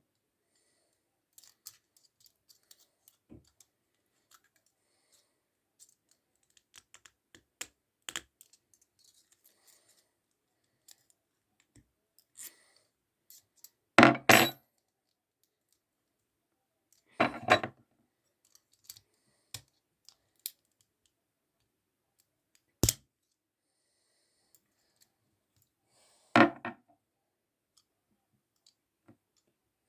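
Small metal clicks and clinks from handling a Zippo lighter and its parts during a repair, with four louder sharp clacks spread through the stretch.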